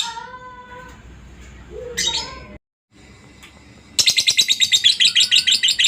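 Lovebird's long, rapid chattering trill (the 'ngekek'), loud and high-pitched, starting about four seconds in. Before it come a few fainter calls and a brief silent gap.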